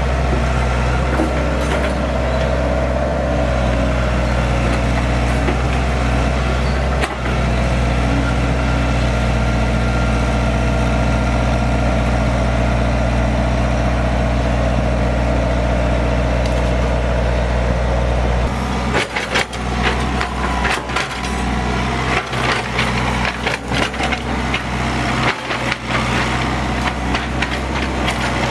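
Heavy diesel engine of an excavator running steadily, then, about two-thirds of the way through, a rapid run of sharp cracks and knocks breaks in, like wood splintering.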